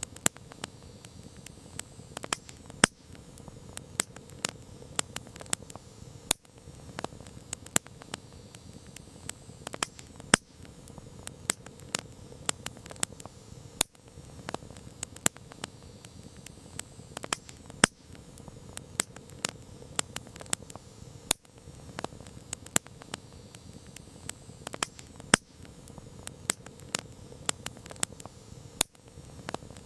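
Campfire crackling: irregular sharp pops and snaps, several a second, over a steady soft hiss.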